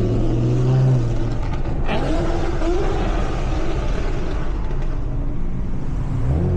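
Loud car exhaust rumbling at low speed, with a short rev rising in pitch about two seconds in.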